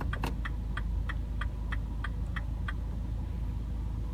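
MINI Cooper S Countryman's turn-signal indicator ticking at about three clicks a second, then stopping about two and a half seconds in, over a steady low hum.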